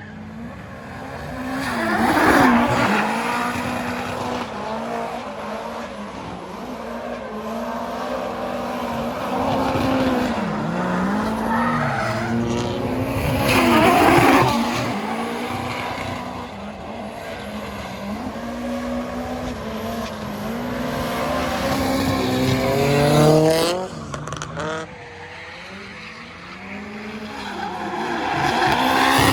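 Drift car engine revving hard and falling off between shifts, with tyres squealing as the car slides. The sound swells to loud peaks three times.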